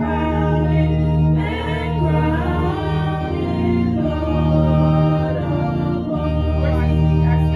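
A small group of voices singing a hymn over sustained keyboard chords, the bass chords changing every second or two.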